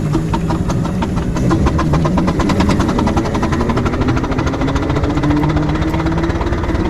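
Exhaust beats of a 6-inch scale Foden C-Type steam wagon's double high-pressure twin-cylinder engine, working up a hill with the regulator open: a quick, even chuffing over a low rumble.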